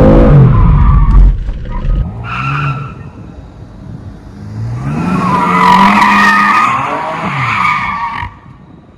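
BMW M4 Competition's twin-turbo straight-six revving hard as the rear tyres squeal and slide through donuts on wet pavement. The engine falls off about a second in, with a short squeal soon after. About halfway through it revs up again under a long tyre squeal, which cuts off suddenly near the end.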